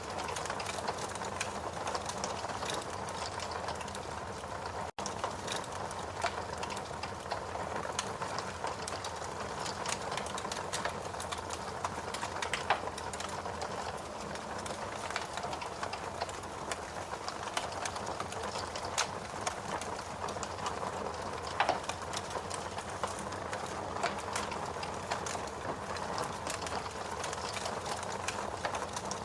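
Steady rain mixed with a wood fire crackling in a fireplace: a constant hiss of rain under many small crackles and a few louder pops. The sound drops out for an instant about five seconds in.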